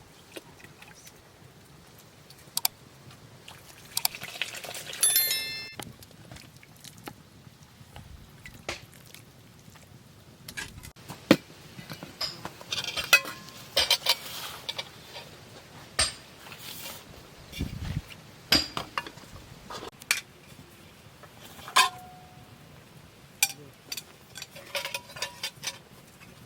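Dishes and metal utensils clinking and knocking during cooking, in scattered separate strikes, a few of them ringing briefly.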